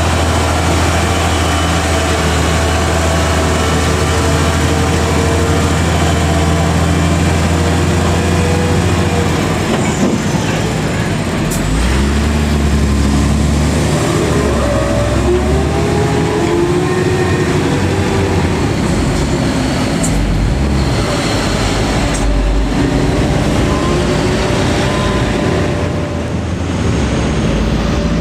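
Vehicle engine and road noise on the move, steady at first, then the engine pitch rises and falls several times as the vehicle changes speed and gears.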